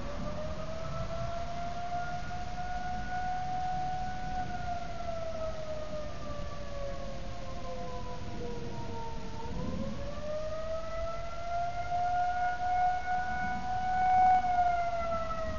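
Outdoor civil-defense warning sirens wailing, the pitch rising and falling slowly in a cycle of about ten seconds, sounding a severe storm or tornado warning.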